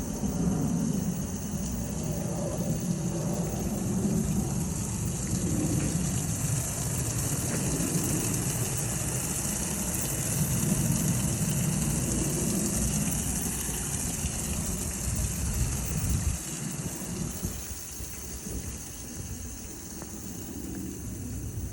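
Car-wash equipment running: a steady pump or motor with water spraying, a low rumble under a constant hiss. It gets a little quieter about three quarters of the way through.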